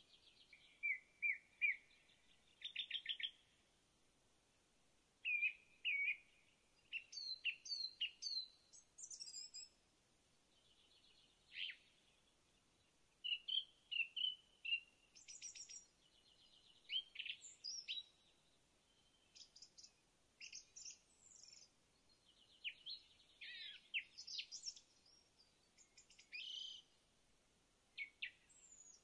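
Songbirds singing in the forest: short, high chirps, quick trills and rising and falling notes, in brief phrases every second or two with short gaps between.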